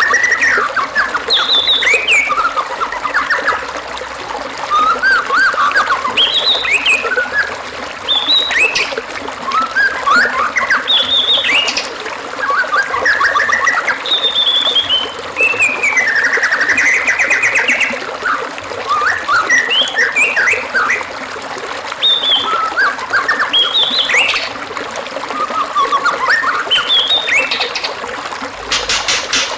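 White-rumped shama (murai batu) singing a long, varied string of whistled phrases and chirps over a steady trickle of running water, with a fast rattling trill near the end.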